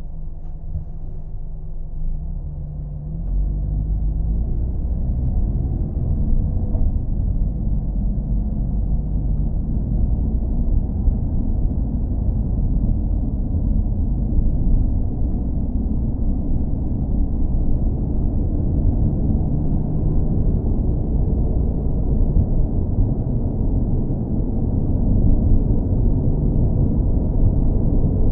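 Car engine running, low-pitched and steady, growing louder about three seconds in.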